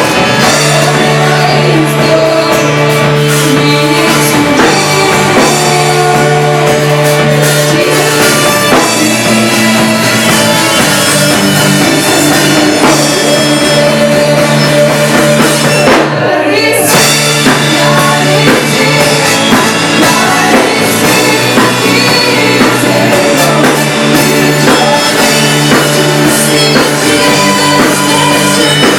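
Worship band playing a song live at rehearsal: drum kit, electric guitar and bass, with singing. The band stops for less than a second about halfway through, then carries on.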